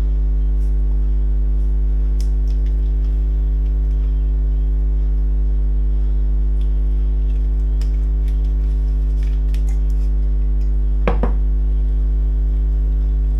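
Loud steady electrical mains hum, with scattered light clinks of kitchen utensils and a louder clatter about eleven seconds in.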